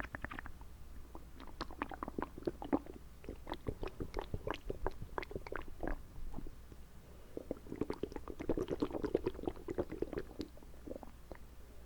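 Wet ASMR mouth sounds close to the microphone: quick irregular tongue clicks and lip smacks, thickening into a busier wet stretch about two thirds of the way through.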